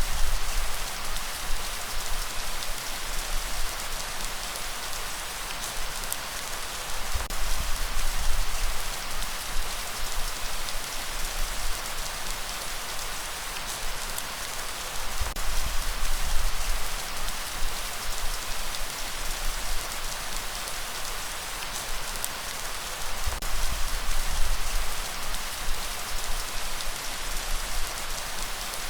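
Heavy, steady rain, with a deep low swell that comes back about every eight seconds.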